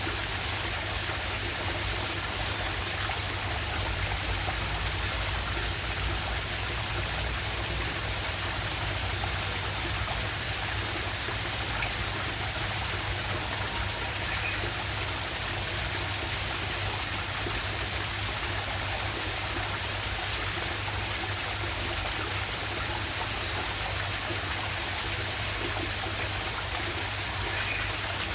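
Stream water running steadily over a small waterfall, a constant rushing wash.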